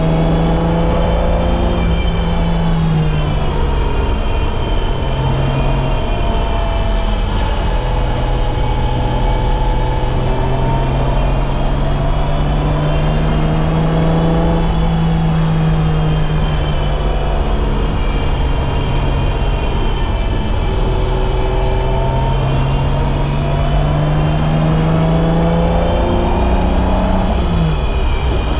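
BMW E30's M20B25 2.5-litre straight-six engine driven hard on track. Its note climbs and falls with throttle and gear changes, with several quick steps in pitch and a sharp drop and recovery near the end.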